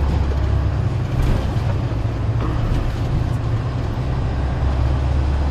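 A 6.7L Cummins ISB inline-six turbodiesel running in a 2016 IC CE school bus, heard from inside the bus as a steady low drone with road and cabin noise.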